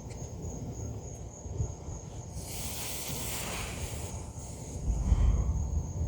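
Low rumble of distant thunder swelling near the end, over a steady chorus of crickets. A rushing hiss passes through the middle.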